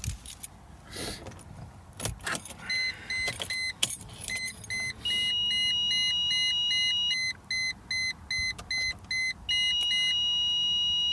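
A few clicks of the car key, then electronic warning beeping in the Mercedes E320: a rapid run of short beeps, about four a second, twice giving way to a steady continuous tone. The owner takes the beeping for the parking sensors.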